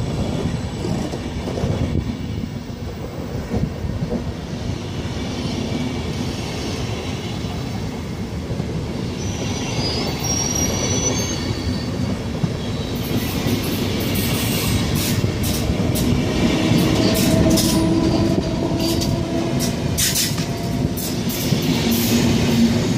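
SBB passenger coaches rolling past close by: a steady rumble of wheels on rail, a brief high wheel squeal about ten seconds in, then, over the second half, rapid clacking over rail joints and points as the train picks up and grows louder.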